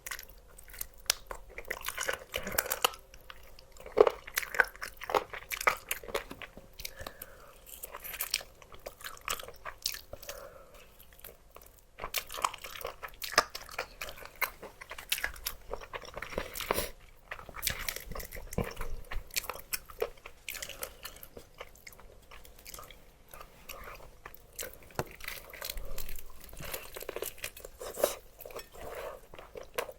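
A person biting and chewing crunchy food close to the microphone: irregular crisp crunches and chewing throughout, with a couple of short lulls.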